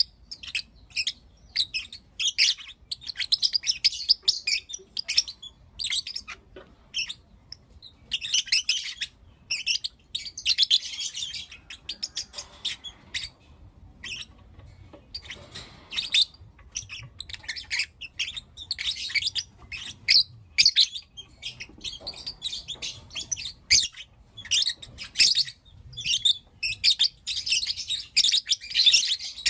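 Lovebirds chirping: a rapid, irregular string of short, sharp, high-pitched chirps, thickening into busy chatter about eight seconds in and again near the end.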